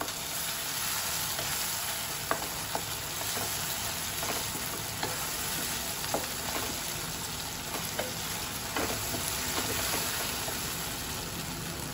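Onion-tomato masala sizzling in a nonstick wok as it is stirred with a wooden spatula, with light scattered taps of the spatula against the pan.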